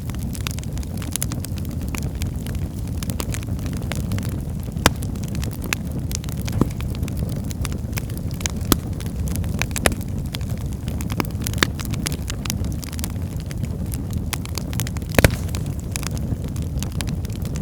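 Wood fire burning in a fireplace: a steady low rumble of flames with scattered sharp crackles and pops from the burning logs, a few louder pops standing out, the loudest about fifteen seconds in.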